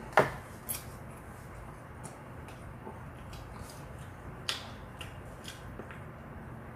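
Fried chicken being chewed and handled, heard as scattered short crisp clicks and smacks at an uneven pace, the loudest just after the start and again about four and a half seconds in.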